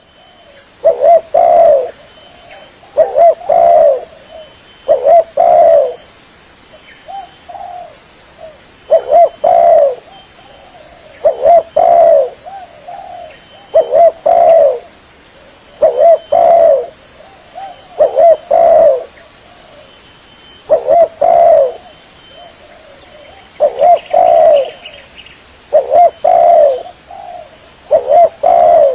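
Spotted dove (tekukur) cooing over and over in short phrases of two or three coos, one phrase about every two seconds. It is a dove-lure call recording, with faint high chirps of small birds behind it.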